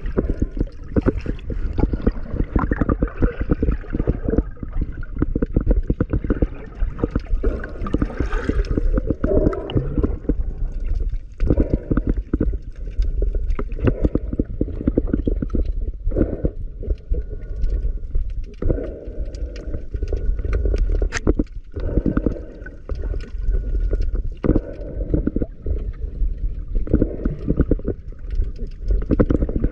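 Muffled sloshing and gurgling water with many scattered knocks and clicks.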